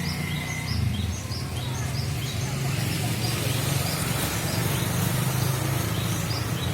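A small bird's short high chirps repeating at an even pace, about one every half second, over a steady low rumble.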